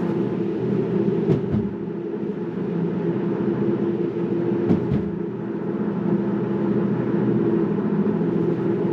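Steady road and tyre noise of a Tesla Model 3 Performance heard inside the car at speed, with a low hum and two brief knocks about one and a half and five seconds in.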